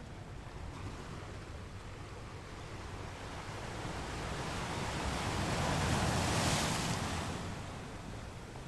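Atlantic surf: a wave swells, breaks and washes in, loudest about two-thirds of the way through, then fades. A steady low wind rumble runs beneath it.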